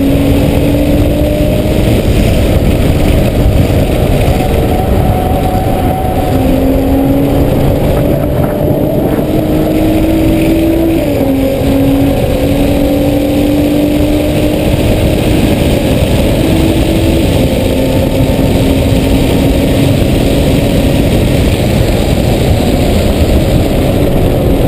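Car engine heard from inside the cabin while lapping a race track, its pitch climbing slowly in long pulls and dropping about eleven seconds in, under loud, steady road and wind noise.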